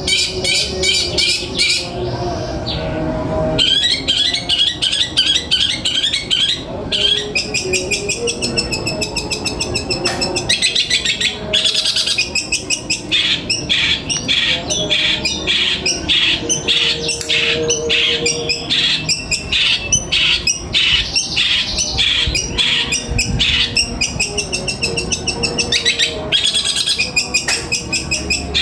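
Songbirds singing: long runs of rapid, repeated high chirps and trills, broken by short pauses.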